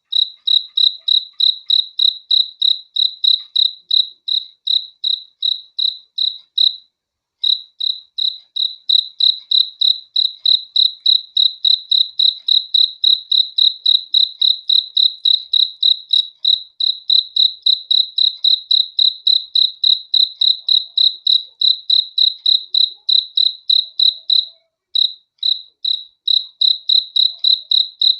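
Cricket chirping in a fast, even train of high, pure chirps, about three to four a second, stopping briefly about seven seconds in and again near the end.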